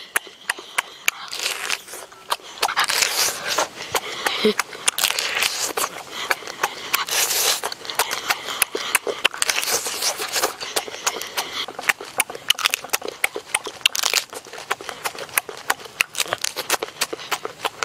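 Close-up wet chewing and lip-smacking while eating cooked crab, with many sharp clicks and crackles as meat and shell are bitten and pulled apart.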